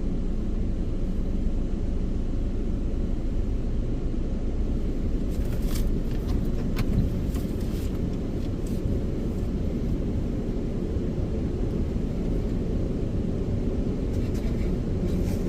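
Car engine idling, heard as a steady low rumble from inside the cabin, with a few faint clicks in the middle and near the end.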